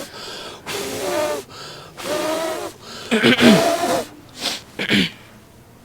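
A person blowing hard in a series of forceful, partly voiced breaths, about six puffs over five seconds, the strongest near the middle, as if blowing on smouldering straw tinder to get it to flame.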